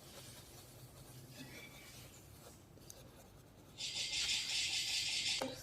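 Pencil scratching steadily across paper for under two seconds near the end, after a few seconds of faint room hum.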